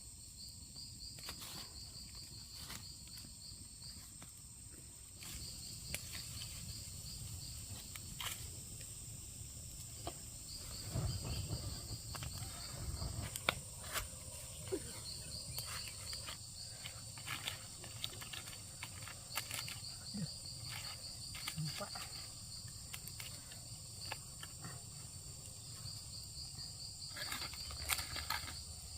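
Insects chirping in trains of rapid pulses lasting a couple of seconds and repeating every few seconds, over a steady high-pitched insect drone, with scattered sharp knocks and clicks.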